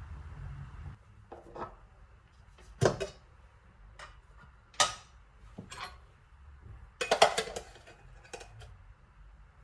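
Kitchenware clinking and knocking: several separate sharp clinks, with a quick run of them about seven seconds in. A low steady hum stops about a second in.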